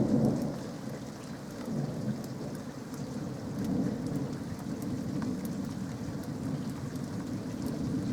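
Rolling thunder from a lightning storm, rumbling low and swelling right at the start and again around two and four seconds in, over steady rain falling with scattered drop ticks.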